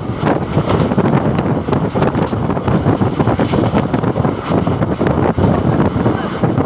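Wind buffeting the microphone over the steady running noise of a moving train, recorded from aboard.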